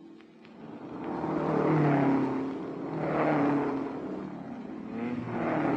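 Racing cars' engines at speed passing one after another on a road circuit, the sound swelling up about a second in, again around three seconds, and once more near the end.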